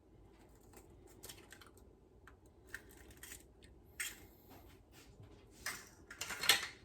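Light scattered clicks and taps of an egg and a plastic egg separator being handled on a measuring cup while an egg is separated, with the loudest cluster of taps near the end.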